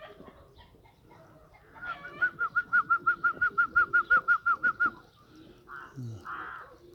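Outdoor birds: a bird gives a rapid run of clear, evenly spaced notes, about six a second for some three seconds, then crows start cawing near the end.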